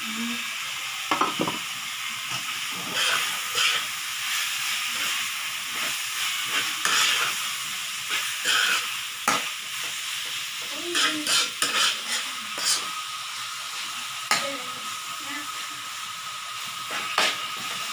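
Eggplant and okra sizzling in oil in a wok while a metal spatula stirs them, with irregular clinks and scrapes of the spatula against the pan over a steady sizzle.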